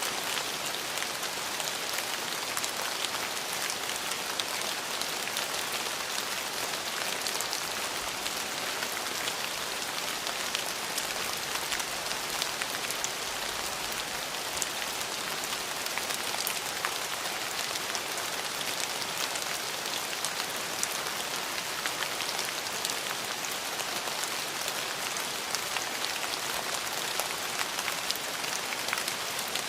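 Steady rain falling on a surface, an even hiss of drops with many small individual drop ticks scattered through it.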